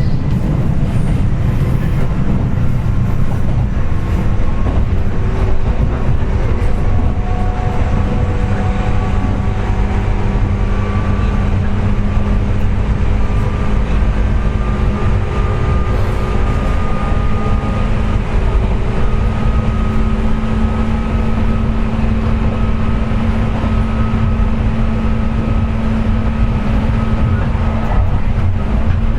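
Running sound inside a JR West 201 series electric train's motor car at speed: a steady heavy rumble of wheels on rail with several whining tones that climb slowly in pitch. The whine is the car's 'jet sound', caused by electrical corrosion of the bearings.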